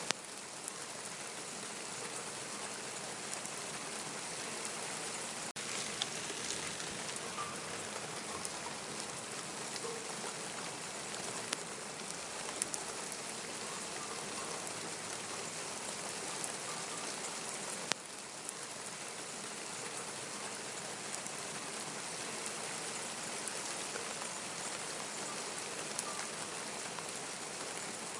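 Steady rain falling and pattering on surfaces, with scattered sharper drips.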